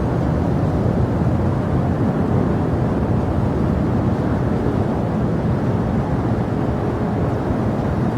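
Steady low rumble of jet aircraft engines at an airport, even in level throughout, with no rise or fall.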